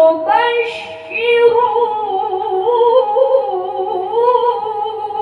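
Quran recitation in melodic tajweed style: a single high voice holds and ornaments a long drawn-out vowel, the pitch wavering up and down in slow melismatic turns, with a short dip about a second in.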